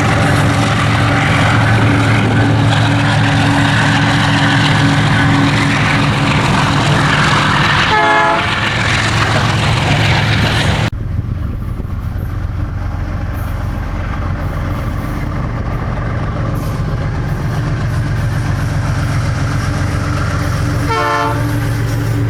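Diesel freight locomotive running with a steady engine drone, sounding its horn briefly about a third of the way in and again near the end. The noisier upper part of the sound drops away suddenly about halfway through.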